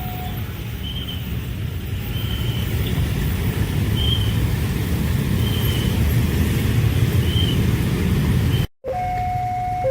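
A train passing over a level crossing: a heavy, steady rumble that grows somewhat louder. Near the end it cuts off abruptly to a level-crossing warning alarm alternating between two tones.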